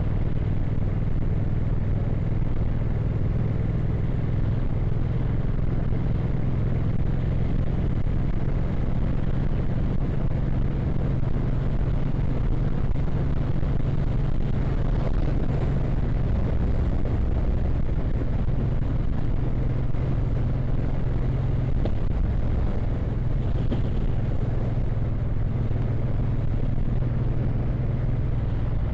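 Custom motorcycle engine running steadily at cruising speed, with a constant hum under the rush of wind and road noise.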